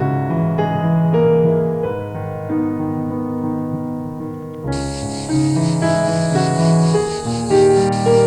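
Background piano music: slow, sustained notes and chords. A high, steady hiss joins about halfway through.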